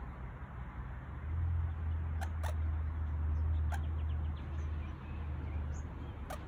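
A few short, sharp bird calls, four in all, over a low rumble that swells from about a second in and fades toward the end.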